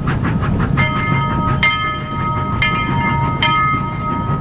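Train sound: a steady low rumble with a metallic clang about once a second, four times, each one ringing on.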